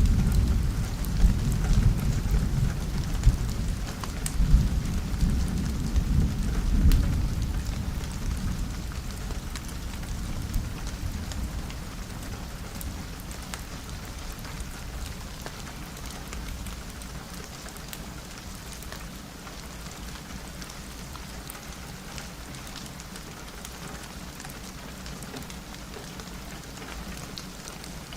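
Steady rain falling on a window with scattered drop ticks, and a long low roll of thunder that rumbles through the first several seconds and fades away by about twelve seconds in.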